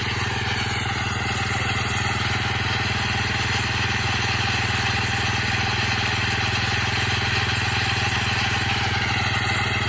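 Petrol engine driving a circular-blade disc sawmill, running steadily under load while it saws green aspen. A higher whine above the engine sags in pitch about a second in and climbs back near the end.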